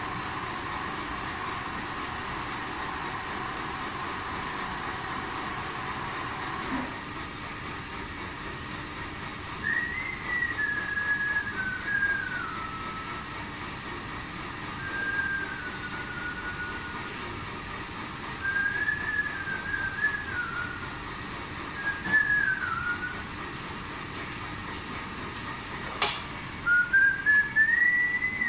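A person whistling short phrases of a tune, over a steady background hum. A faint steady tone in the hum stops with a click about a quarter of the way in, and there is another click near the end.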